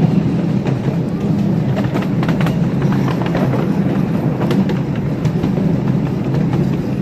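Train rolling along the track behind a live steam locomotive: a steady rumble with scattered sharp clicks from the wheels on the rails.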